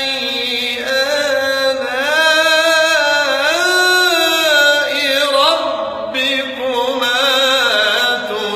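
A man reciting the Quran in melodic tajwid style, holding long drawn-out notes with ornamented rises and falls in pitch.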